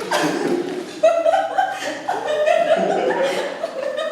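A person laughing, in a run of short voiced chuckles.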